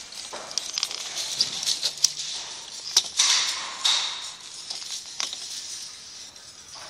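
Rustling and scattered small clicks of hands handling yarn at a loom shaft, in uneven bursts, the loudest about three to four seconds in.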